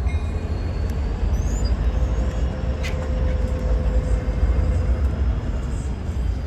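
Freight train rumbling by, a steady low rumble with a faint steady tone in the middle.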